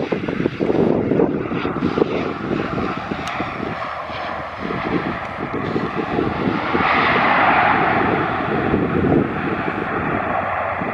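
Airliner engine noise as a plane passes, swelling to its loudest about seven seconds in. Wind buffets the microphone throughout.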